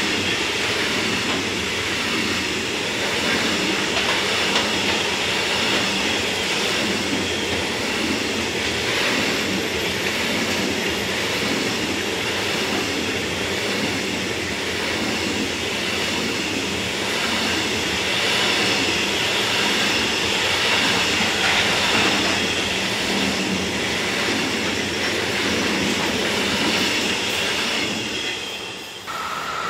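Freight train of container flat wagons rolling past on the near track: a steady noise of wheels on rails. Near the end the last wagon goes by and the noise drops away sharply.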